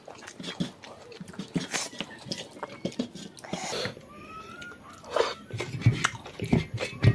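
Close-up eating sounds: wet chewing and lip-smacking of rice and chicken curry eaten by hand, with many small clicks, and a few dull thumps near the end.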